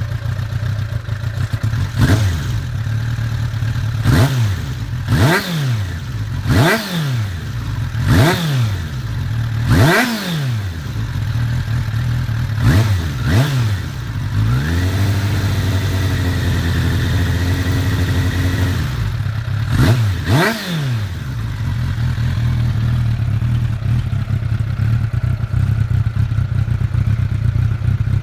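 Suzuki Bandit 600's inline-four engine through a Devil Master Carbon aftermarket exhaust, idling and revved in a series of quick throttle blips. Near the middle it is held at raised revs for about four seconds, then gets two more blips and settles back to a steady idle.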